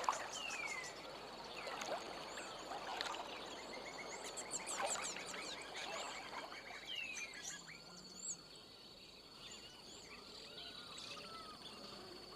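Marsh ambience of many birds calling, with chirps, whistles, down-slurred notes and rapid trills, over a steady high-pitched hum. The calls are busiest in the first half and thin out after about eight seconds.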